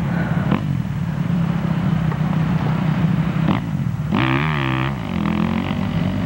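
Motocross motorcycle engines running steadily on the track, with one bike revving hard for under a second about four seconds in.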